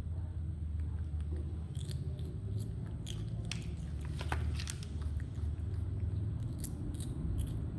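Small monkeys biting and chewing raw vegetables: scattered crisp crunches and clicks from about two seconds in, over a steady low rumble.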